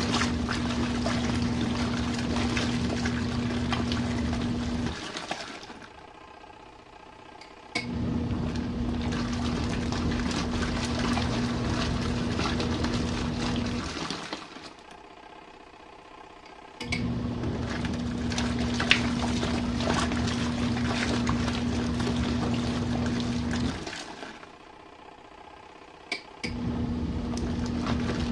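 RV washing machine in its main wash. The motor hums steadily and water sloshes for about six to seven seconds at a time, then stops for about three seconds before starting again; there are three such stops.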